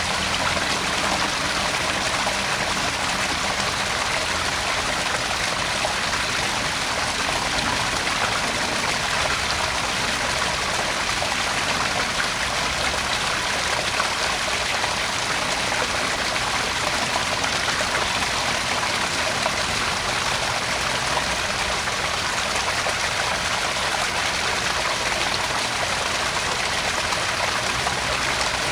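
Garden pond waterfall: water falling steadily into the pond, a constant, even splashing with no breaks.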